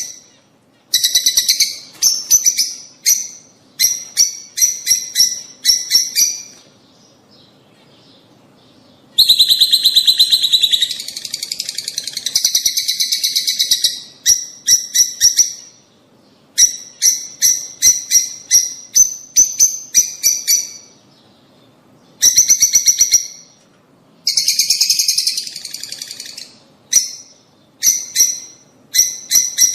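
Lovebirds chattering: rapid runs of shrill chirps in bursts of several seconds, with a few short pauses between them.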